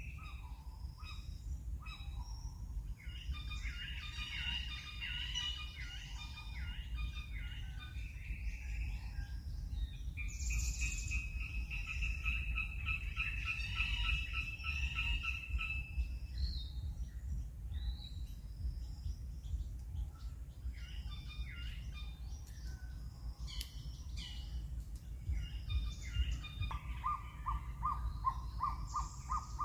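Wild birds chirping and calling in the trees, several voices overlapping, over a steady low rumble. Near the end a rapid run of evenly spaced notes starts up.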